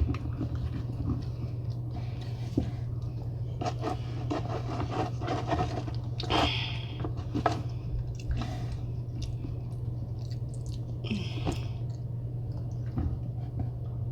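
A person eating from a seafood boil close to the microphone: wet chewing and mouth smacks with scattered sharp clicks, over a steady low hum.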